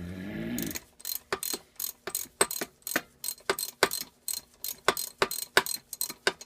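A ratchet wrench clicking steadily, about four clicks a second, as a bolt is backed out of a small engine, after a short strained grunt at the start.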